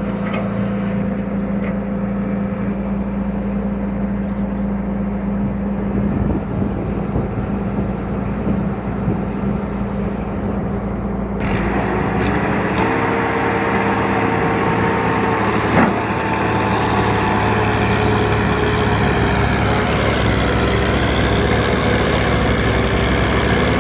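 Tractor engine running steadily. About halfway through, the sound changes abruptly to another engine's steady note, which dips and rises in pitch near the end.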